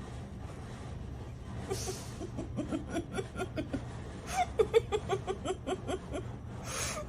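A person laughing in short rhythmic bursts, several a second, starting about two seconds in, over a low steady hum, with two brief breathy hisses.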